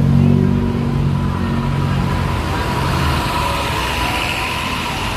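Street traffic: a motor vehicle's engine running close by with a steady low hum that fades away about three seconds in, over general traffic noise.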